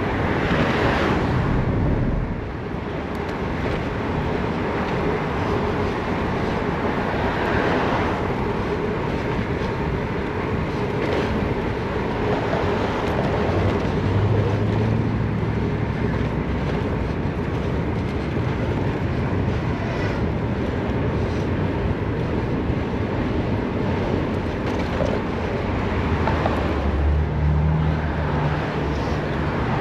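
Steady rush of wind over a chest-mounted action camera's microphone, with tyre and traffic noise while riding a gravel bike through city streets. A low hum comes in twice, about midway and again near the end.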